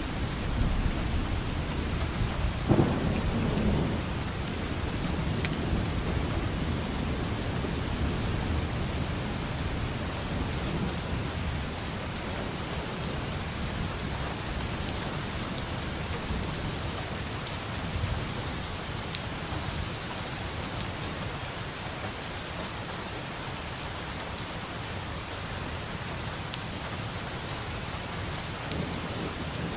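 Steady rain heard from indoors, with low rumbling thunder underneath. A louder thunder rumble comes about three seconds in.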